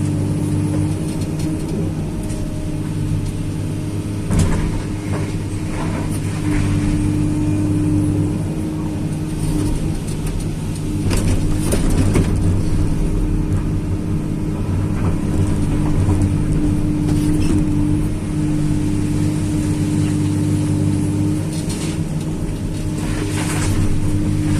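Tracked excavator's diesel engine running steadily under work, with a few knocks and clanks about 4 seconds in, around 11 to 12 seconds in and near the end.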